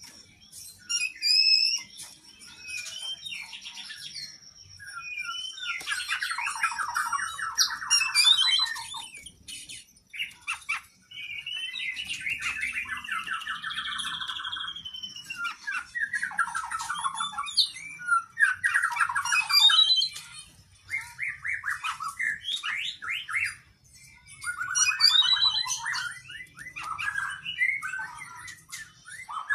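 Oriental magpie-robin (kacer) singing a long, varied song of whistles, high chirps and rapid buzzy trills, with phrases separated by brief pauses. The song includes mimicked phrases of other birds.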